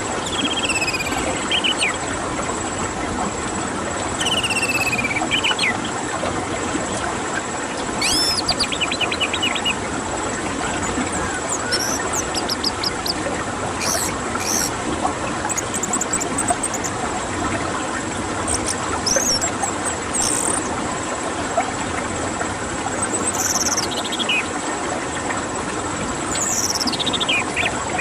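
Orange-headed thrush singing: separate whistled phrases, many sliding down in pitch, mixed with quick runs of short notes, over a steady hiss.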